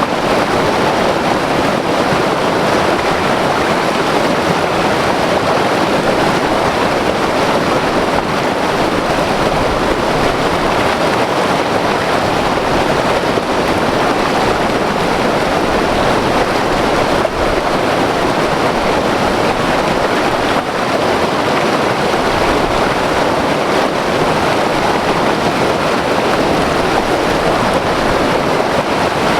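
White-water river rushing over rocks, a steady loud roar of turbulent water with no let-up.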